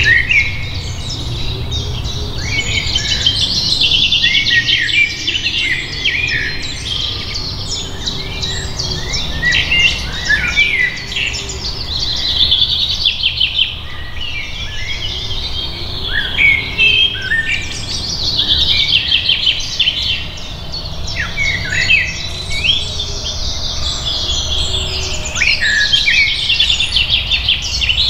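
Birds singing: a dense, continuous stream of rapid high chirps and trills, over a low steady rumble.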